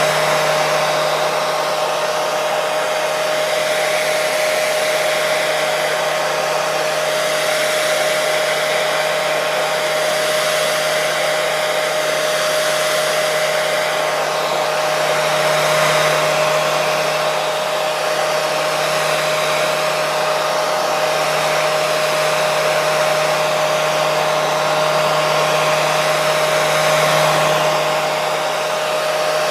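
Hair dryer running continuously: a steady rush of blown air over a constant motor whine, with slight slow swells in loudness.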